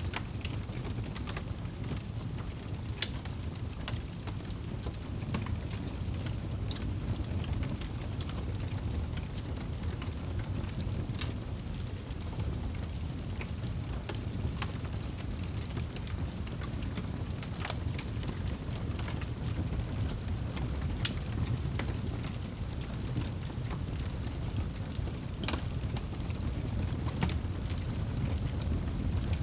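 A crackling fire with irregular sharp pops and snaps over a steady low rumble of rain.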